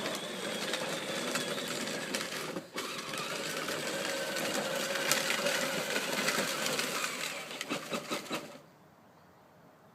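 Electric ride-on John Deere toy tractor's motor and gearbox whirring steadily with a light rattle, dipping briefly about two and a half seconds in and cutting off suddenly near the end.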